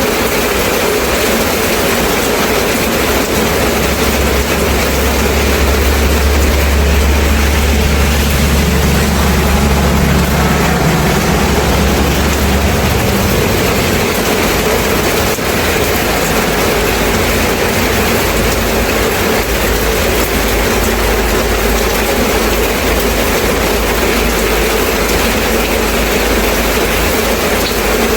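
Steady rain, an even hiss. A low rumble swells in about three seconds in and dies away around thirteen seconds in.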